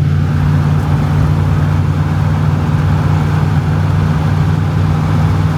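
Utility vehicle (Gator) engine idling steadily.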